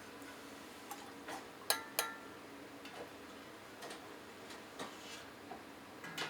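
Scattered light taps and clinks of kitchen utensils, with two sharper ringing clinks close together a little under two seconds in.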